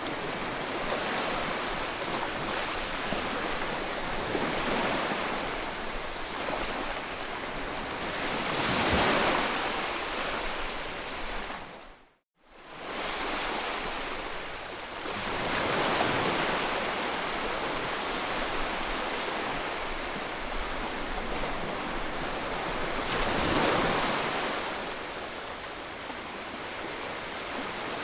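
Sea waves surging and washing in, swelling to a louder peak roughly every seven seconds. The sound cuts out completely for a moment about twelve seconds in.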